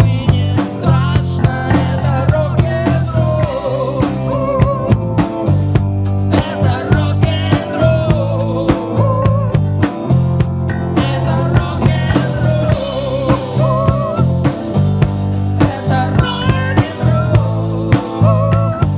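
Live rock band playing an instrumental passage: a drum kit keeps a steady beat under bass, and a lead melody wavers and bends above them.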